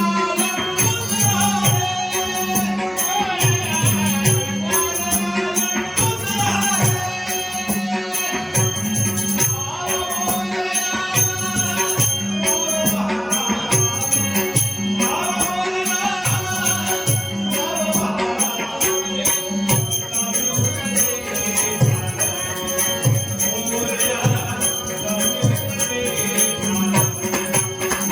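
A male voice singing a Ganesh stavan, a devotional hymn, to a steady beat of low drum strokes and jingling small cymbals.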